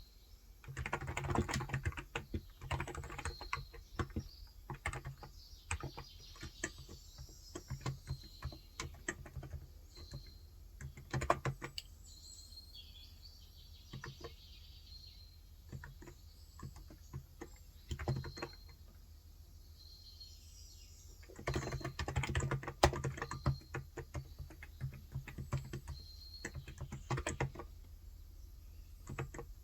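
Typing on a Cox Endeavor electrostatic capacitive keyboard with 35 g switches: quick runs of soft key strokes near the start and again about 22 seconds in, with scattered single strokes between. Birds chirp faintly in the middle of the stretch.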